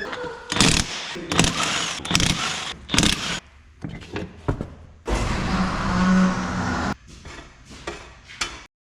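Tools and metal parts knocking and clattering, then a cordless impact wrench running for about two seconds, taking the wheels off to change the tires, followed by a few lighter knocks.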